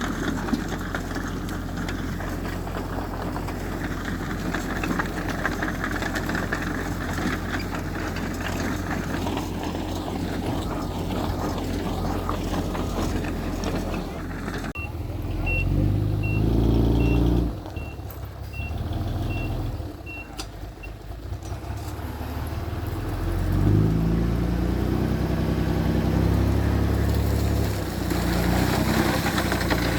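Heavy earthmoving diesel engines running, the engine note rising and shifting under changing load in the second half. About halfway through, a reversing alarm beeps about nine times at an even pace.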